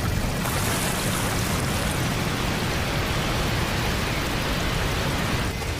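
Steady rushing noise with a low rumble underneath, a sound effect like a strong blast of wind or rushing water.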